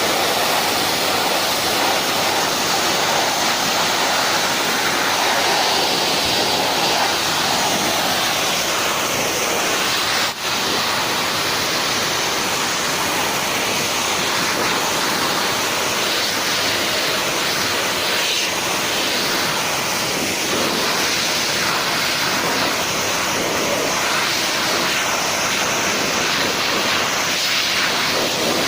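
Hair dryer blowing a steady, loud rush of air, with a brief dropout about ten seconds in.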